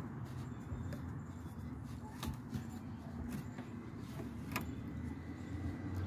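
A few separate metallic clicks and taps from a socket wrench working a screw on the transmission, over a low steady rumble.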